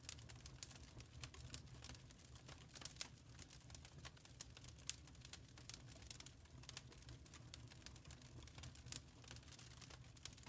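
Faint crackling of a wood fire in a fireplace: irregular sharp pops and snaps, a few louder than the rest, over a steady low rumble.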